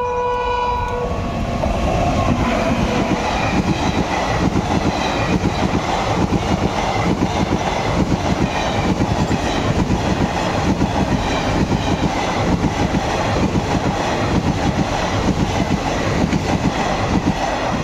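A train horn sounds briefly at the very start. Then a passenger train's coaches run past close by, their wheels clattering in a fast, steady rhythm over the rail joints.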